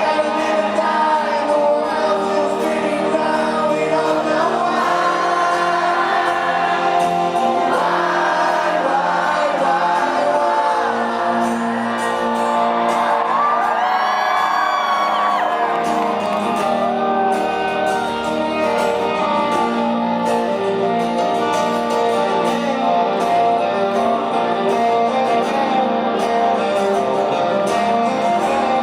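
Rock band playing live with a lead vocal over sustained guitars, with whoops from the crowd.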